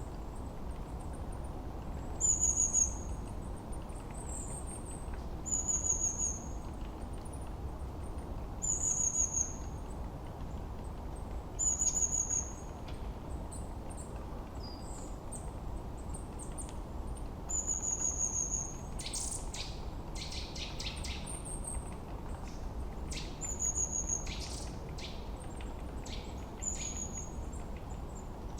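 Forest birdsong: a small bird repeats a short, high, falling call every few seconds, and from about two-thirds of the way in a rapid chattering rattle joins it. A steady low rumble of wind runs underneath.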